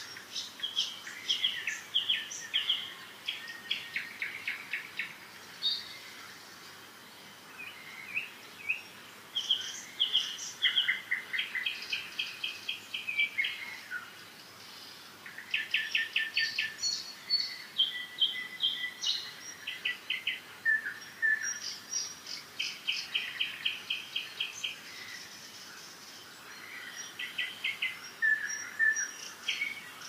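Songbirds singing in short phrases of rapid repeated notes, with a few brief lulls between phrases.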